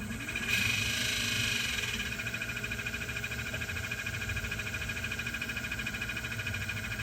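MG4 EV's air-conditioning blower fan running with a fast fluttering whine over its hiss, rising in pitch as it speeds up in the first half second and then holding steady. The noise is a factory fault that the owner links to the fan and its speed setting.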